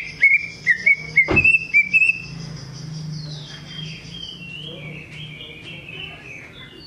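Cucak ijo (green leafbird) singing: a quick run of short, clear whistled notes, then softer, longer sliding whistles. A single dull knock comes in about a second and a half in.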